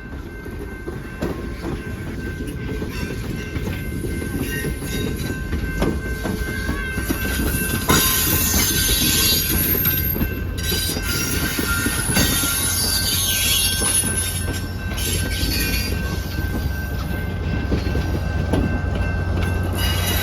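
A train passing close by: steel wheels squealing on the rail and a few sharp clacks over a low rumble that grows louder.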